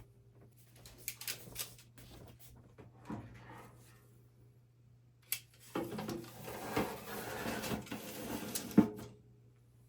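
Kitchen handling sounds: a few light clicks, then a few seconds of clattering and rustling of dishes and utensils, ending in one sharp knock near the end.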